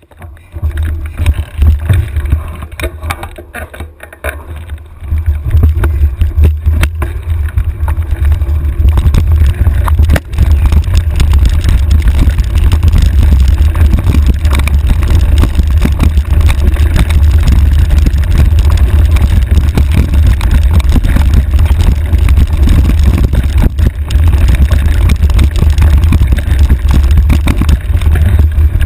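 Mountain bike on a rough trail heard from a handlebar-mounted camera: heavy wind rumble on the microphone with a dense rattle of knocks and clicks from the bike over rocks and ruts. It gets much louder and steadier about five seconds in.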